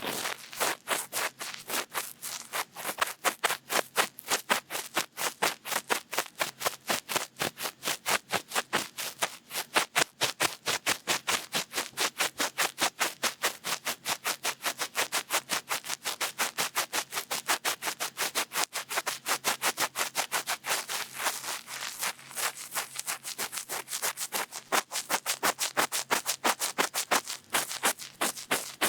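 Cotton bud rubbing and scratching in an ear close to the microphone, in quick repeated strokes of about three to four a second.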